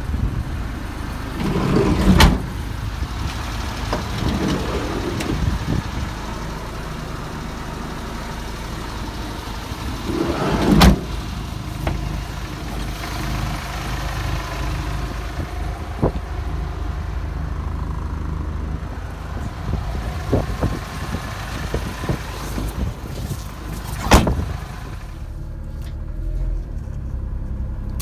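1994 Suzuki Every kei van idling with a steady low hum, while its doors are worked: loud knocks about 2, 11 and 24 seconds in, with lighter clicks in between.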